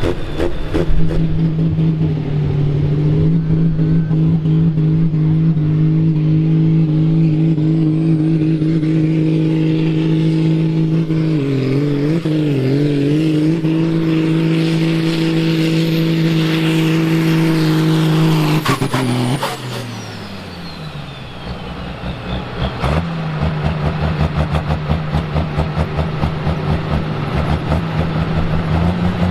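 Ursus tractor's diesel engine held at full throttle under a heavy pull, with a high whistle climbing above the steady engine note. After about 18 seconds the revs fall off sharply, and after a short lull the engine runs on at a lower, pulsing speed.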